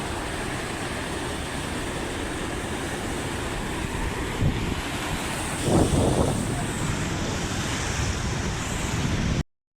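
Wind buffeting the microphone over the steady wash of sea surf, with a louder gust or wave about six seconds in. The sound cuts off suddenly near the end.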